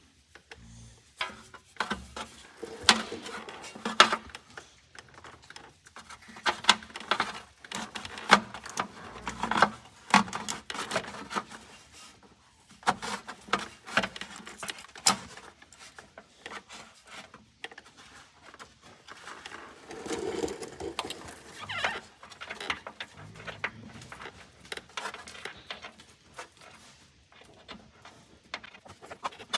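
Irregular clicks, clinks and knocks of hand tools and a ground cable being handled and fitted in an engine bay, in uneven spurts with short pauses.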